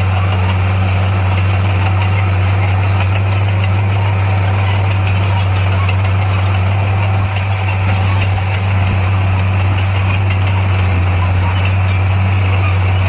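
Diesel engine of heavy construction machinery running steadily, a deep, even drone.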